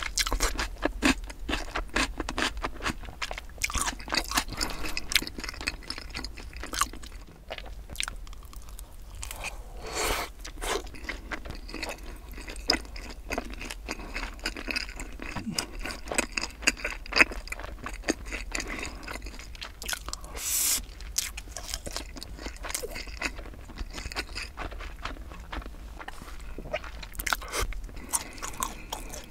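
Close-miked chewing and crunching of pickled radish cubes and sauced Korean fried chicken: a steady run of sharp crisp crunches and crackles from the mouth, with a few louder crunches along the way.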